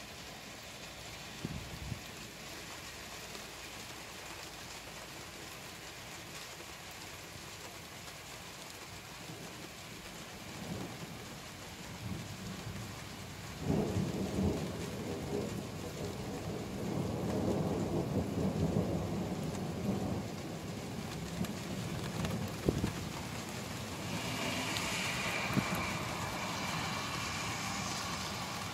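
Thunderstorm: rain falls steadily throughout, and a long, deep rumble of thunder starts about halfway through and dies away several seconds later. Near the end the rain's hiss grows brighter and louder.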